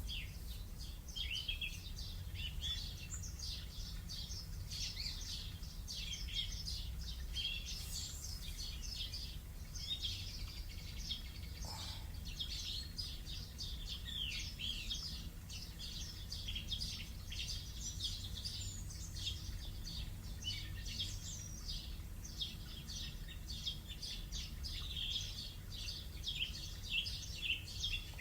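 Recording of a chorus of songbirds chirping and trilling in the morning, many short calls overlapping without a break, played through an Alexa smart speaker over a low steady hum.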